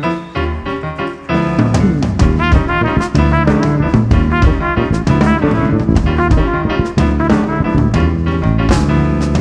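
Jazz band playing swing: a soft piano passage, then from about a second in the full band comes in with drum kit and brass.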